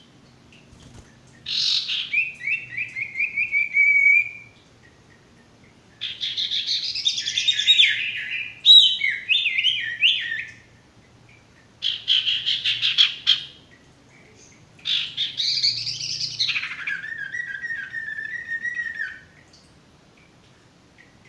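Sirtu birds singing: four loud phrases of quick, stepped chirps that slide down in pitch, each lasting two to four seconds, with short pauses between them.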